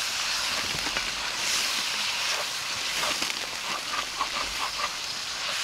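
Food frying in a pan over a campfire: a steady sizzling hiss with scattered small pops and crackles.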